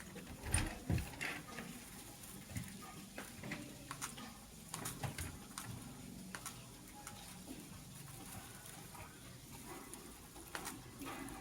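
Scattered light taps, clicks and scrapes of a lovebird moving about its cage while building a nest, strongest about half a second to a second in.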